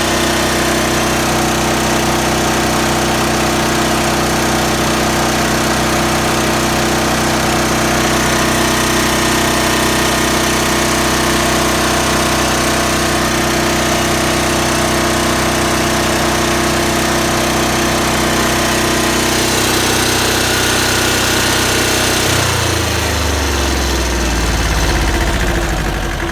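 The two-cylinder Lombardini diesel engine of a Voltmaster 13000 generator running steadily and loud. About 22 seconds in, its pitch falls as it winds down, as when the engine is shut off.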